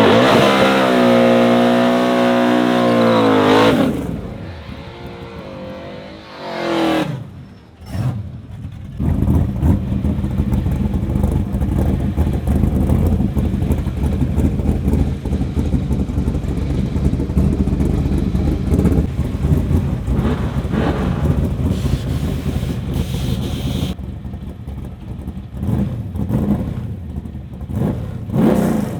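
Car engine accelerating hard, its pitch rising for about four seconds, then backing off. There is a brief rev near seven seconds, then a steady engine drone from about nine seconds on.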